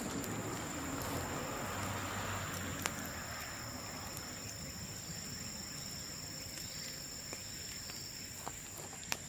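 Insects trilling steadily in a high, continuous tone, with a couple of sharp pops from a bamboo bonfire, one about three seconds in and one near the end.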